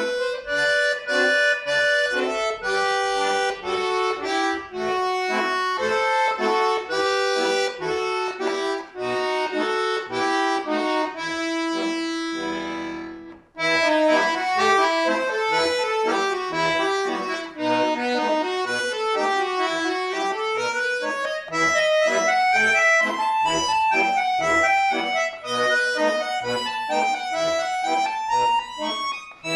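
Solo bayan (Russian button accordion) playing a folk-song arrangement. A slower melodic passage ends on a long held note, there is a brief break, and then quick runs of notes rise and fall in waves.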